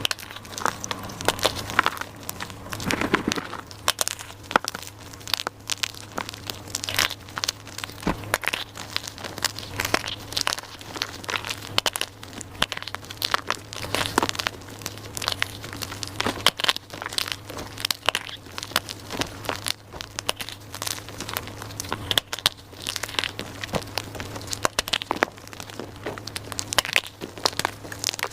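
Dyed gym chalk being crushed and crumbled, a dense, irregular run of crunches and crackles, over a faint low hum.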